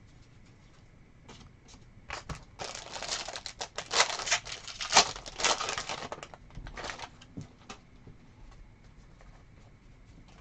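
Foil wrapper of a 2024-25 Donruss Basketball card pack being torn open and crinkled. A dense crackling starts about two seconds in and runs for about five seconds, loudest in the middle, then gives way to a few scattered light ticks.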